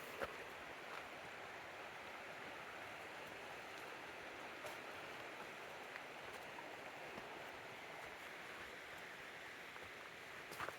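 Steady rush of flowing river water, with a few faint sharp clicks, one near the start and one near the end.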